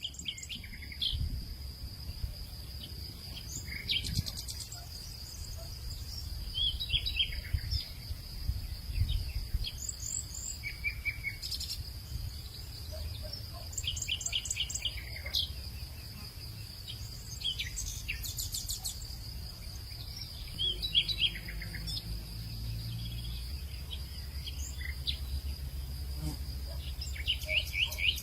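Birds calling in short, scattered chirping phrases over a steady high-pitched insect drone, with a low rumble underneath.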